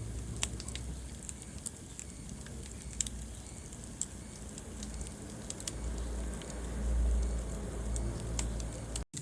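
Wood fire burning in a fireplace, crackling with scattered sharp pops over a low rumble of the flames. The rumble swells for a couple of seconds in the second half, and the sound cuts out for an instant near the end.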